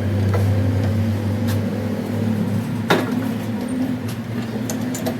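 A workshop machine running with a steady low hum, with a few sharp clicks or knocks, the loudest about three seconds in.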